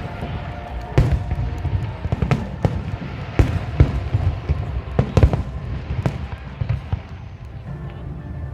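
Fireworks exploding: a string of sharp bangs at irregular intervals, several a second at times, over a steady low rumble.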